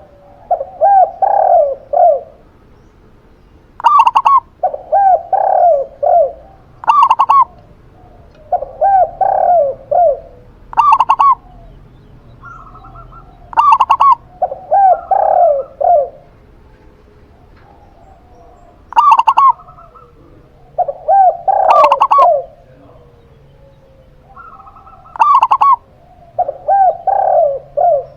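Zebra dove and spotted dove cooing back and forth: short sharp notes alternating with lower runs of three or four coos, repeating every few seconds.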